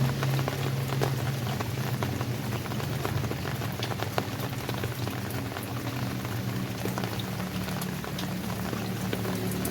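Steady rainfall, a constant hiss dotted with many separate drop hits. A low steady hum runs underneath, weaker in the middle.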